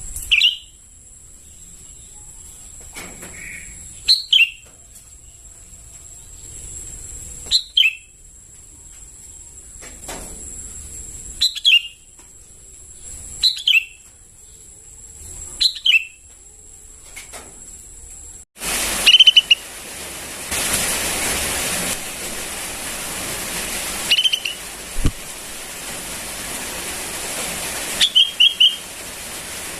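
Juvenile sooty-headed bulbul calling: short notes that fall in pitch, repeated every two seconds or so. A thin steady high whine sits under the first part. Over halfway through, a steady rushing hiss comes in suddenly, and the calls go on over it.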